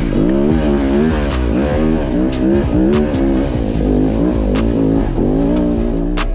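Dirt bike engine revving up and down again and again, its pitch rising and falling every fraction of a second, with music playing underneath.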